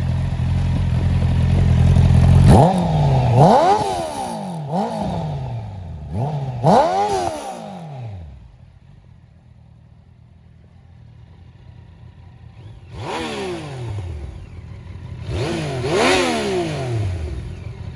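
Motorcycle engine idling, then revved in a series of short throttle blips, the pitch rising and falling back each time. There are four or so blips in quick succession, a quieter spell at idle, then two or three more.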